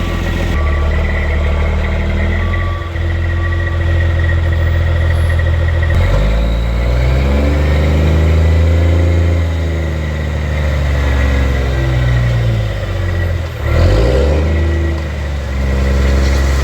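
Big diesel truck engine, the International 8100's M11 Cummins, running and revving, its pitch rising about six seconds in and sliding back down, with a brief dip near the end. A steady repeating beep sounds over it for the first few seconds.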